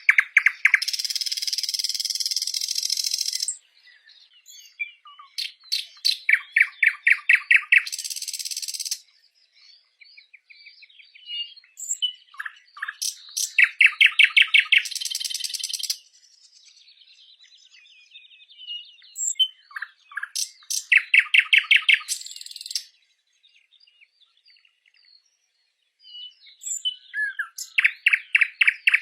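A songbird repeating the same song about every seven seconds, five times: a quick run of clear, evenly spaced notes followed by a harsh, buzzy trill lasting a second or two. Faint scattered chirps fill the gaps between songs.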